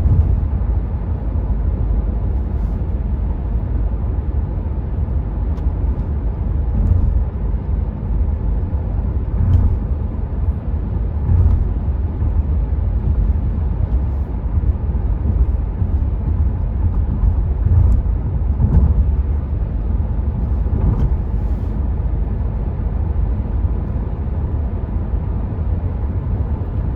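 Steady cabin noise inside a Renault Megane 4 cruising on the motorway: low tyre and road rumble with a little wind noise, and a few faint bumps along the way.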